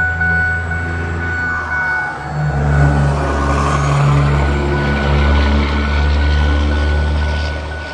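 Pickup truck engine running, growing louder about two and a half seconds in and staying strong, with a faint steady high tone over it.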